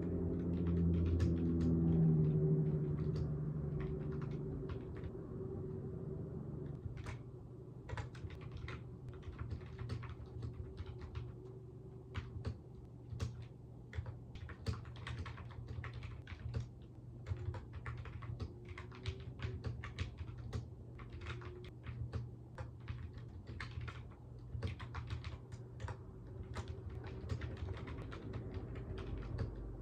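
Typing on a computer keyboard: a steady run of quick key clicks. A low droning tone is loudest about two seconds in and fades out by about six seconds.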